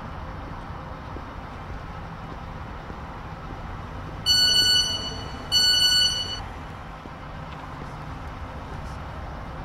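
Two long, high electronic beeps, about a second apart, over a steady low rumble.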